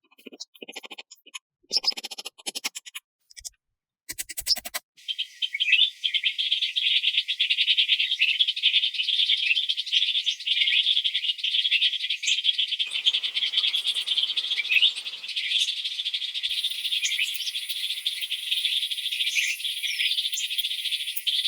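A few seconds of scattered short rustles and clicks. Then, about five seconds in, a dense, high-pitched chorus of rapid chirping calls from small night creatures starts and carries on steadily.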